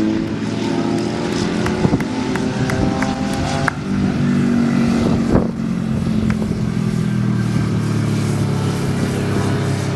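Vintage racing motorcycle engines running hard, several at once, with pitches that rise in places as the bikes accelerate.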